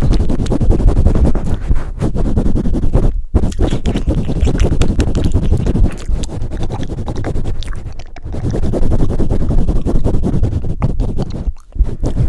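Close-miked ASMR microphone handling: hands rubbing, cupping and scratching right on the microphone, a dense stream of scratchy crackle over low thumps. It breaks off briefly about three, eight and eleven and a half seconds in.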